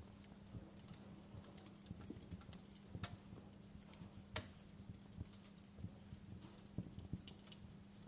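Wood fire crackling, with faint irregular pops and snaps and two sharper pops about three and four and a half seconds in, over a steady low hum.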